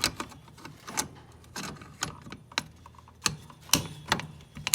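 Irregular light clicks and rattles of small hard parts being handled, one or two a second, as the switch and its wiring are worked on.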